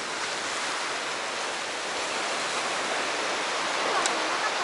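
Steady rushing wash of sea surf along the shore, with a light click about four seconds in.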